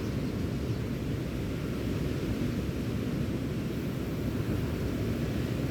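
Steady low rush of wind and waves, the wind buffeting the microphone.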